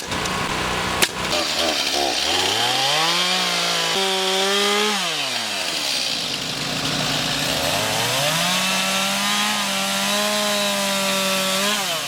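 Gas chainsaw revved up twice from idle. Each time it holds at high speed for a few seconds, then drops back, with a sharp click about a second in.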